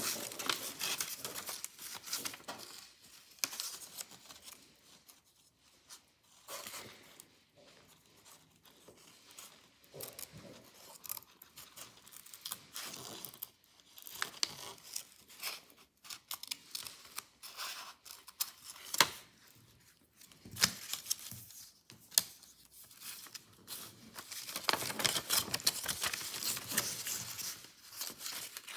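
Scissors snipping through paper in irregular runs of cuts, with the paper rustling as it is handled.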